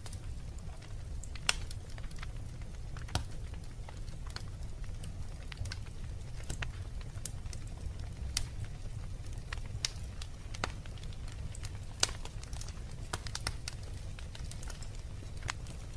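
Wood fire burning in a fireplace: a steady low rumble of flames with irregular sharp crackles and pops, the loudest pop about twelve seconds in.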